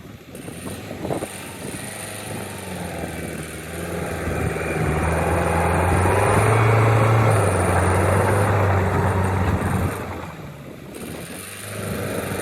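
Engine of heavy construction machinery running under load with a steady low hum. It grows louder in the middle, then eases off briefly about ten seconds in before picking up again.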